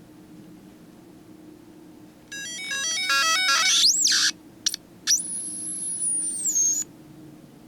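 A failing hard disk drive making abnormal electronic noise: a quick run of stepped beeping tones, a fast rising sweep, then a high steady whine that dips in pitch near the end and cuts off suddenly.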